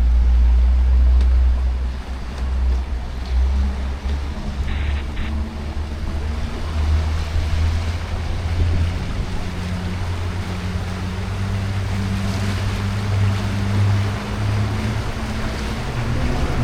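Small tour boat's engine running with a low steady drone that rises slightly in pitch about halfway through, over the rush of water along the hull.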